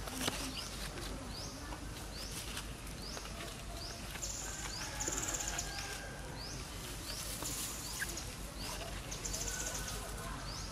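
Outdoor ambience of high bird calls: short rising chirps repeating about twice a second, with a few buzzy trills between them, over a steady low background rumble.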